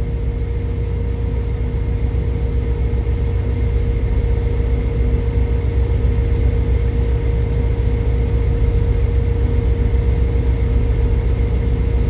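Semi truck cab noise at highway speed: a steady low drone of engine and tyres on the road, with a faint steady hum over it.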